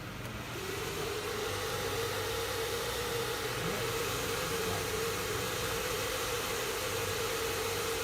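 Desktop PC switched on about half a second in: its fans come up to a steady airy hiss with a steady mid-pitched hum, including the graphics card's cooler fan freshly lubricated with silicone grease to cure its loud humming.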